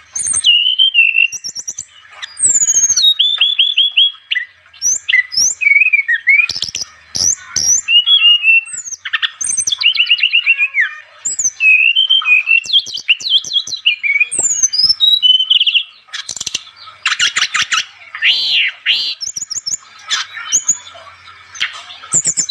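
A songbird sold as an SRDC (sikatan rimba dada coklat, brown-chested jungle flycatcher) in full 'gacor' song: a fast, unbroken run of varied high whistles, slurred notes and rapid trills with only brief pauses, as used to lure wild birds.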